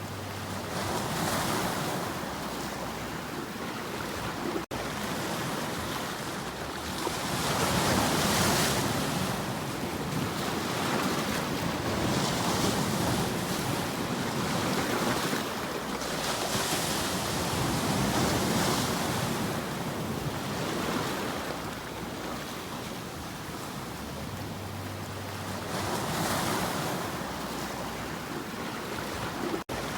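Ocean waves surging and washing in, the rush swelling and falling back every few seconds, with two very brief dropouts, about five seconds in and near the end.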